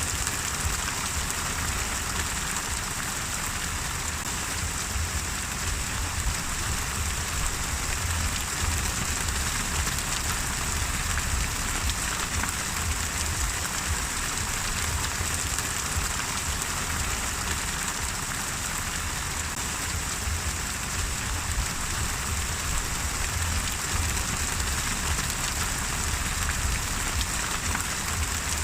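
Gentle, steady rain: a continuous hiss of falling rain with many small drop hits and a low rumble underneath, unbroken throughout.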